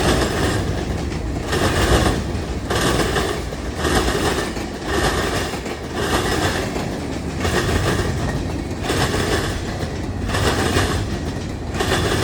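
Freight train cars rolling past, their steel wheels clacking over the rail in a regular rhythm, a louder swell about every second and a bit.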